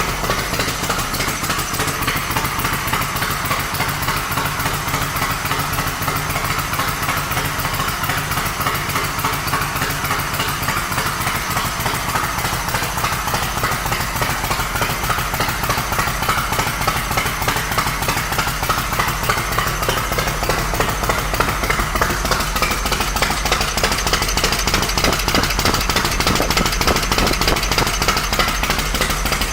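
2005 Yamaha Road Star Silverado's 1670 cc air-cooled V-twin running steadily through aftermarket drag pipes, a loud rapid train of exhaust pulses.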